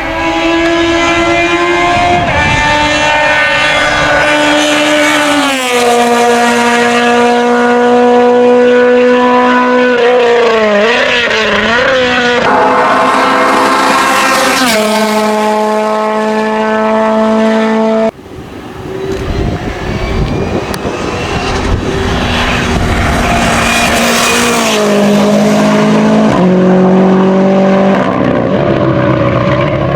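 Hillclimb race car engines at high revs under full throttle, the pitch holding and then stepping as the driver shifts gears, wavering briefly partway through. About halfway there is an abrupt change to another car, whose engine grows louder and shifts through the gears again near the end.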